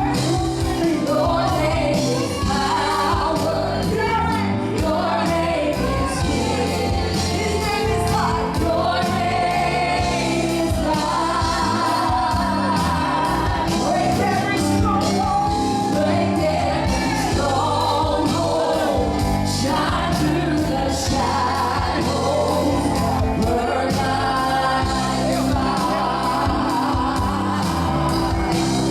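Gospel worship song with singing over a live band, with a steady beat.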